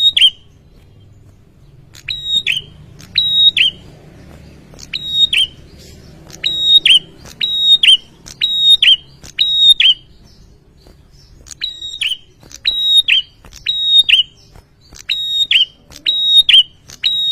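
Male prinia (prenjak) singing: loud, sharp high notes repeated about twice a second in runs, with a pause of about a second and a half midway.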